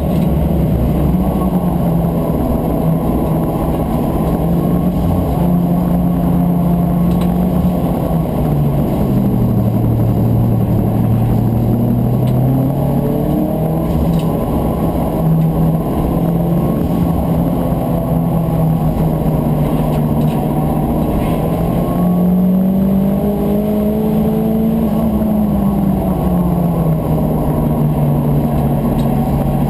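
Turbocharged VW Corrado race car engine heard from inside the cabin at racing speed, running hard without a break. The engine note drops for a few seconds about a third of the way in and climbs back, then rises and falls again about two-thirds of the way through as the car is driven through the corners.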